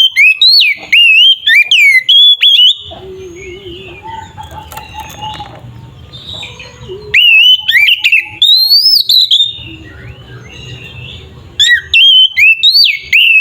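Oriental magpie-robin (kacer) singing in loud bouts of rapid whistled phrases with sharply sliding notes. There are three bursts, at the start, in the middle and near the end, with quieter soft warbling and a low hum between them.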